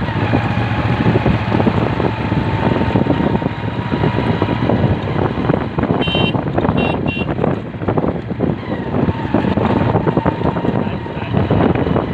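Tractor engine running loudly and steadily.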